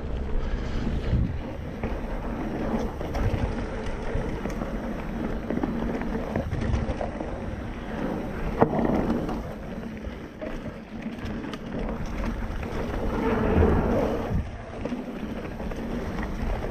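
Mountain bike ridden fast down a dirt trail: wind rushing over the camera microphone and the tyres rumbling over the ground, swelling and easing with the speed, with one sharp knock from the bike about eight and a half seconds in.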